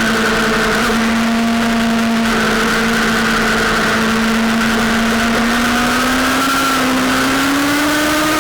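Sportbike engine running at steady high revs under way on a racetrack, then climbing gradually in pitch over the last couple of seconds as it accelerates, over a steady rush of noise.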